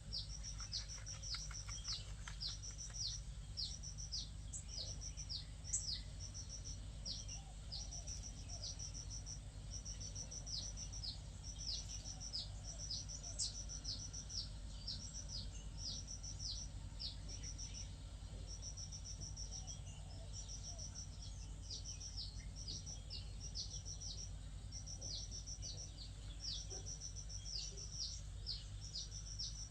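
High-pitched chirping calls repeating about once a second, each a quick trill that drops into a falling note, over a steady low rumble.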